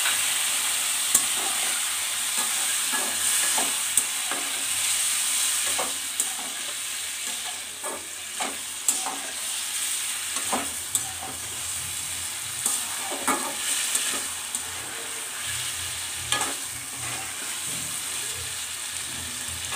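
Potatoes sizzling in hot mustard oil in a metal kadai just after a watery ginger-garlic paste went in, with a metal spatula scraping and clinking against the pan as they are stirred. The sizzle grows quieter after about six seconds.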